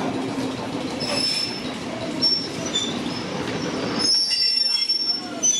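Railcar wheels running slowly over station track with a rumble, and high-pitched flange squeal on the curves that comes and goes, strongest in the last second and a half as the rumble fades.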